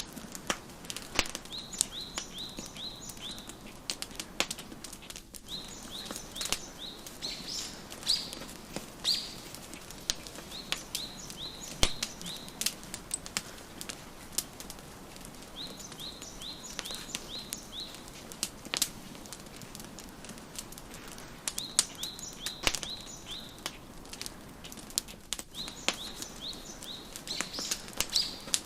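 Wood fire crackling with scattered sharp pops, while a songbird sings short phrases of quick, high repeated chirps, a new phrase about every five seconds.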